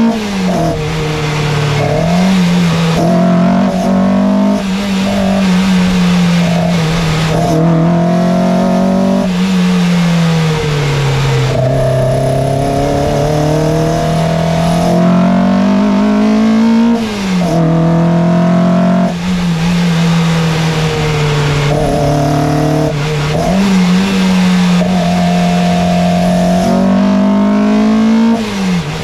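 Peugeot 205 1.3 Rallye's four-cylinder petrol engine being driven hard at high revs, its note climbing and falling repeatedly as the revs change, with short dips in sound that fit gear changes.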